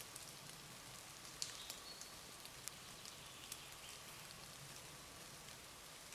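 Light rain falling in woodland: a faint steady hiss with irregular single drops ticking close by.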